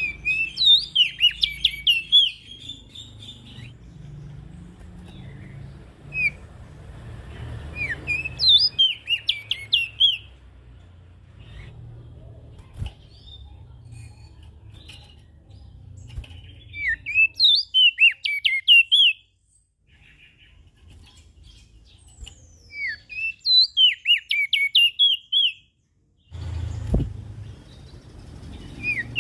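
A prenjak daun songbird singing loud bursts of quick, chirping notes. A phrase comes about every seven or eight seconds, four or five times, over a low background hum.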